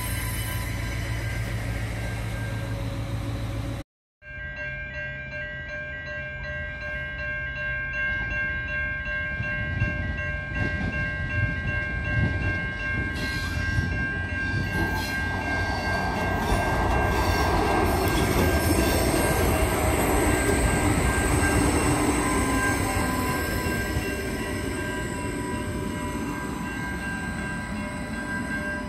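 A diesel railcar running at a platform, then, after a brief cut, level crossing warning bells ringing steadily while a railcar approaches and runs past, its rumble loudest about two-thirds of the way through.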